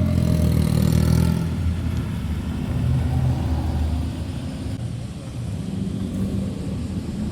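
A modified car's engine and exhaust revving up in the first second and a half, then running at low revs as the car moves slowly; engine sound picks up again near the end.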